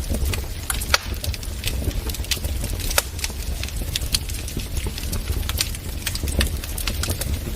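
Wood fire in a fireplace crackling, with irregular sharp pops and snaps, a couple of louder ones about one and three seconds in, over a steady low rumble.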